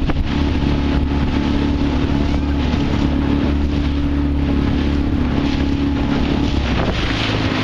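A motorboat's engine running at a steady speed, with wind and water rushing past.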